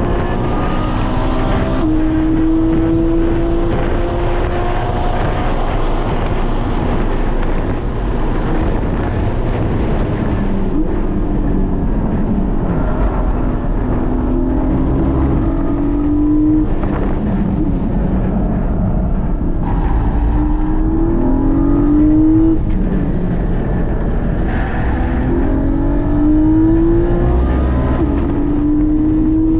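Porsche 718 GT4's 4.0-litre flat-six engine at racing speed, heard from inside the cabin: the pitch climbs through the revs, drops sharply at each quick PDK gear change and climbs again, with falling sweeps on downshifts. Steady tyre and wind noise runs under it.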